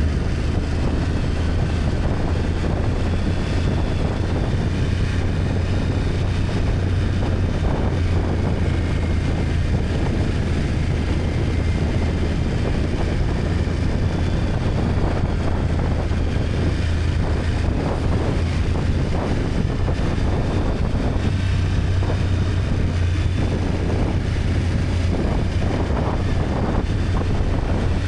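A BMW F800GS's parallel-twin engine running steadily on the move, with wind noise on the microphone.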